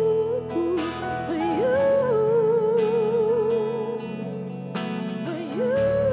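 Live singer holding a wordless sung melody with vibrato and sliding pitch over sustained accompaniment chords, with a dip in the melody about a second in and a slide up near the end.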